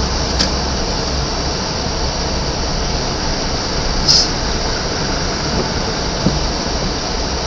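Car driving on a rain-soaked road, heard from inside the cabin: a steady hiss of tyres on the wet surface over a low engine and road rumble, with a brief louder splash of hiss about four seconds in.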